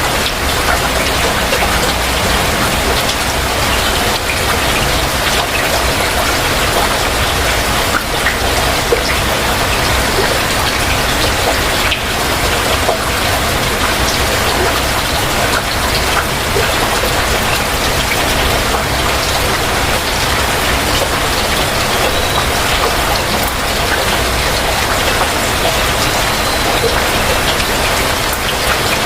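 Heavy rain falling steadily, a dense continuous hiss with countless individual drops pattering on surfaces.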